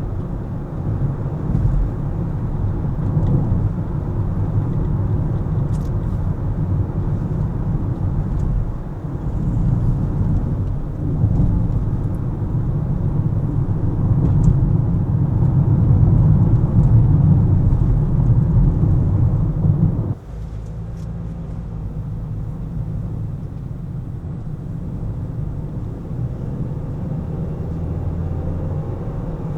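Low, steady rumble of a car driving: engine and tyre noise. It grows louder for a while, then drops abruptly about two-thirds of the way through to a quieter, even rumble.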